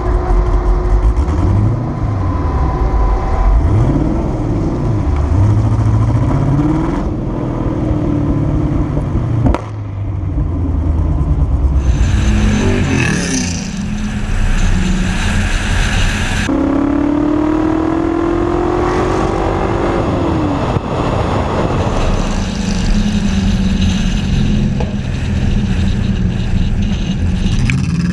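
LS3 V8 of a Ferrari 330 P4 replica race car driving on the street. The engine note rises and drops several times as it accelerates and shifts, with steadier running in between and a long, slowly rising pull about two-thirds of the way through.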